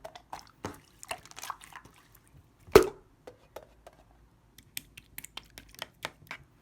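Clear slime being squished and worked by hand, with wet sticky pops and small air-bubble clicks; one louder plop about three seconds in, then a run of quick small clicks near the end.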